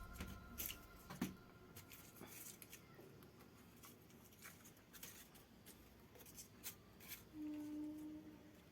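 Faint scattered clicks and rustles of something being handled, with a brief low steady hum starting about seven seconds in.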